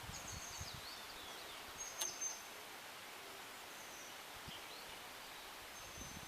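Small birds chirping with short, high whistled notes over a steady outdoor hiss, with a single sharp click about two seconds in.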